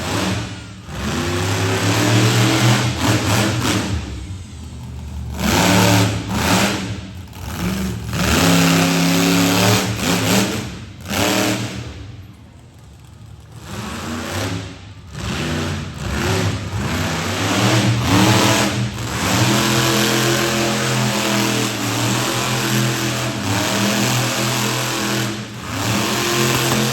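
Monster truck engine revving hard in repeated surges, its pitch rising and falling, with short lulls about four and twelve seconds in.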